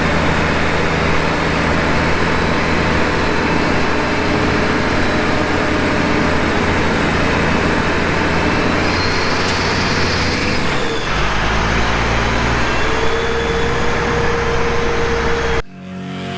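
A heavy vehicle's engine running steadily under a rushing noise; about eleven seconds in its low note shifts to a new pitch, and near the end the sound cuts off abruptly.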